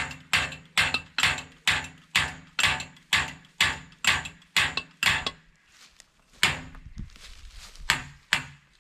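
Rapid hammer blows on a steel greenhouse fence pipe, about three a second for five seconds, each strike ringing briefly. Three slower, spaced blows follow near the end.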